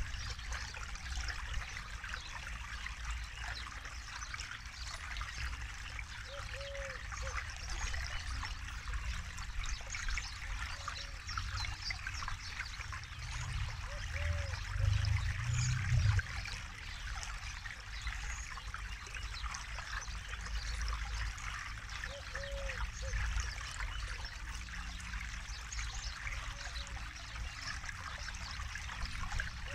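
Forest river flowing steadily, water trickling and babbling over stones. Faint short low calls recur every few seconds, and a low rumble swells briefly about halfway through.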